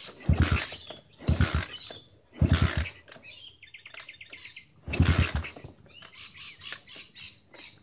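A pit bike being kick-started without catching: three kicks about a second apart, then a fourth after a pause of two seconds or so. Each kick turns the small single-cylinder engine over in a short sputter that dies at once.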